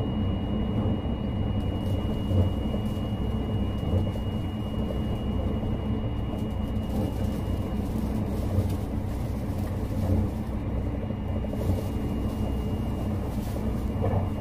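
Train running noise heard from inside the carriage: a steady low rumble of wheels on rail. A faint, thin high steady tone sounds over it for about the first half.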